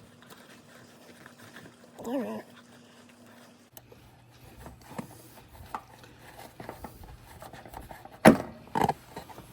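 A dog whines briefly about two seconds in. A faint low hum comes in a little later, and two sharp knocks near the end are the loudest sounds.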